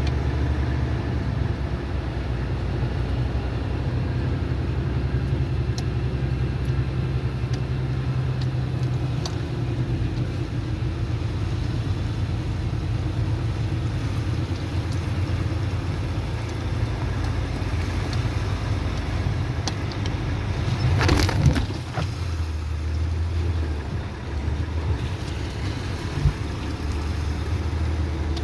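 A motor vehicle's engine running with a steady low hum, and a short, louder burst of noise about 21 seconds in.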